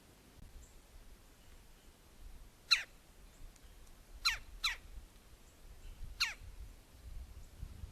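A bird calling: four short, sharp calls that each drop steeply in pitch, two of them in quick succession in the middle.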